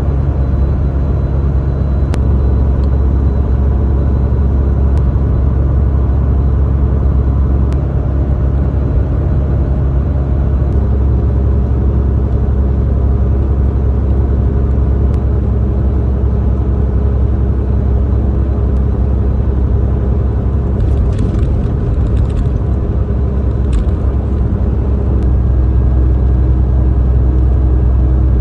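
Semi truck's diesel engine and road noise heard from inside the cab while driving, a steady low drone. A few faint clicks, and a short rattle about three quarters of the way through.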